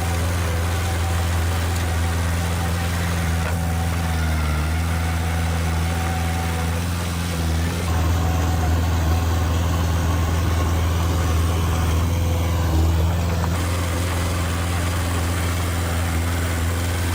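Diesel engine of heavy earthmoving machinery running steadily at low revs with a deep, even hum; it grows slightly louder about halfway through.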